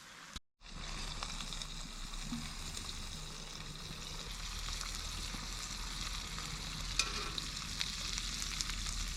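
Food frying, a steady sizzle with scattered small pops and crackles, starting about half a second in after a brief break.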